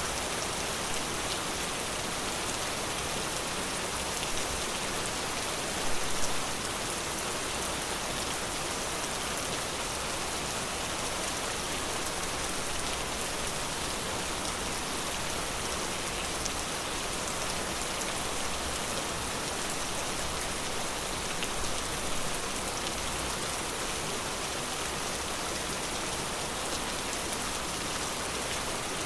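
Steady rain falling in a forest: an even hiss of many drops, with a couple of brief louder spells of nearer drops, one a few seconds in and one about three quarters of the way through.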